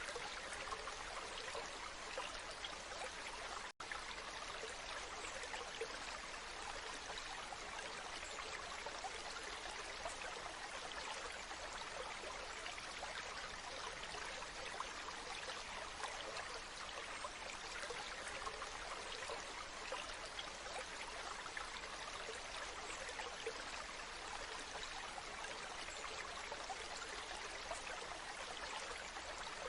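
Waterfall: a steady rush of falling and splashing water, with a split-second dropout to silence about four seconds in.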